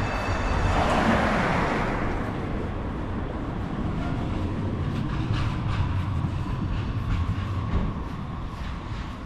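Street traffic: a heavy vehicle passing with a steady low hum, its noise swelling about a second in and then easing, with faint clicks later.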